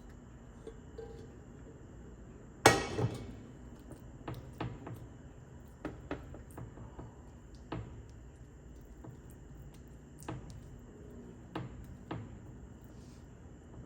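Kitchenware being handled: one sharp clink of glass or ceramic about two and a half seconds in, then scattered light knocks and taps of dishes and utensils.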